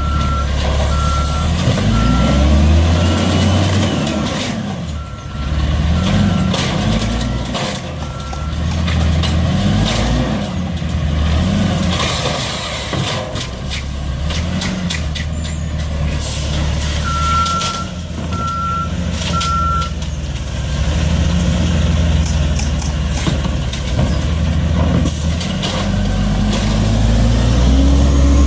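Garbage truck's engine revving up and down over and over, with its reversing beeper sounding a steady run of beeps in the first third and three more beeps about two-thirds of the way through.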